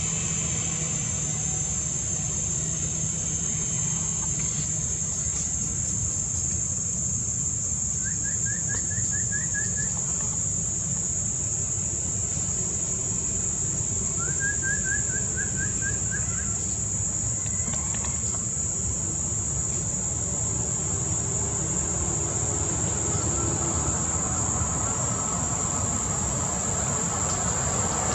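Steady, high-pitched insect drone, with a low steady rumble underneath. Twice a short bird trill of quick repeated notes cuts in, about 8 and 14 seconds in.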